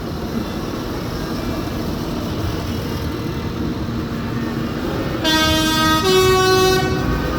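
A vehicle horn on a parade tractor sounds a two-note blast about five seconds in, a lower note and then a higher one, together lasting under two seconds. Under it is the steady rumble of tractor engines.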